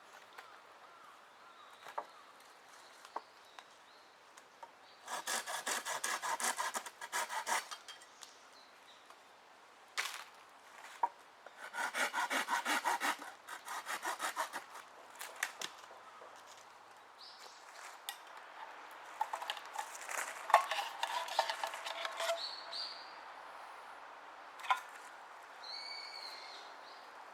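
Small hand saw cutting firewood in two spells of quick, regular strokes, with scattered knocks and clicks of wood being handled in between.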